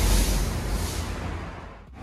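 Train crossing a steel railway bridge overhead: an even rushing hiss that fades steadily and drops away near the end.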